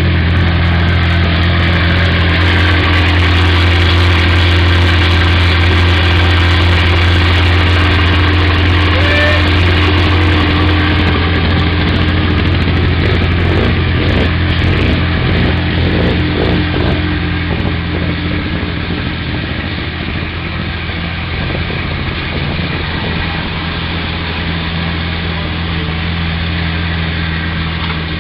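Ferrari F430 Challenge's 4.3-litre V8 idling steadily, a little quieter in the last third.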